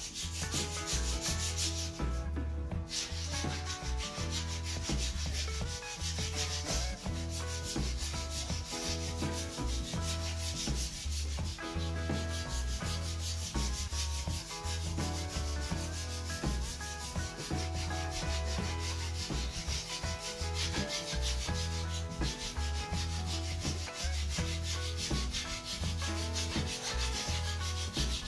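Sandpaper rubbing steadily along the new wooden shaft of a snooker cue, a continuous scratchy sanding sound.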